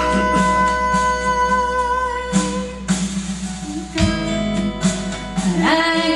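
Instrumental break in a gospel song: guitar-led accompaniment with held chords and several strummed strokes between the sung lines.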